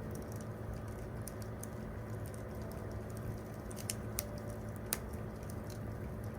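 Wood campfire crackling over a low steady rumble, with scattered sharp pops, the loudest about four and five seconds in.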